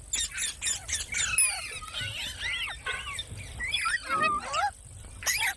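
Green pet parrot calling: a rapid string of short chirps and squawks that swoop up and down in pitch, with a brief lull about four seconds in.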